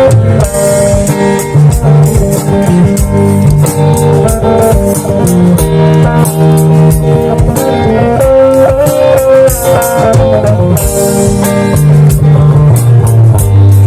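Band playing an instrumental passage: guitar over bass guitar and a drum kit keeping a steady beat.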